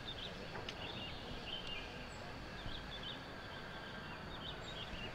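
Small birds singing in surrounding trees: short, repeated chirping and warbling phrases over a steady outdoor hiss.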